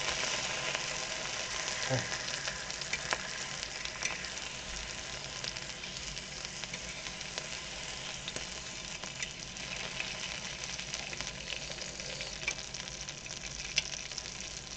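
Pork belly sizzling in its own fat in a pan along with garlic and onion: a steady frying hiss with fine crackling pops and a few sharper clicks.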